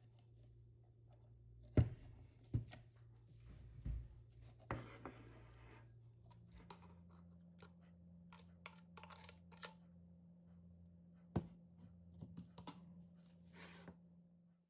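Kitchen utensils and containers being handled while preparing ingredients: several sharp knocks and a brief scrape, then a run of light quick taps.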